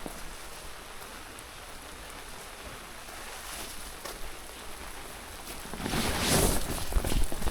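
Steady rain falling, with a louder rush of noise from about six seconds in.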